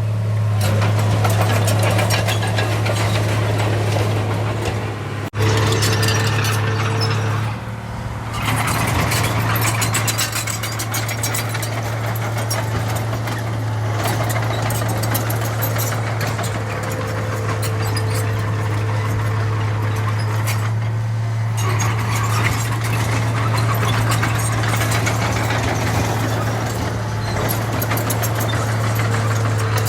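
Heavy construction machine's diesel engine running steadily with a constant low drone, briefly cutting out about five seconds in.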